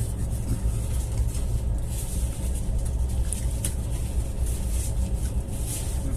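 A passenger train running, heard from inside the coach: a steady low rumble of wheels on track, with scattered light rattles and clicks.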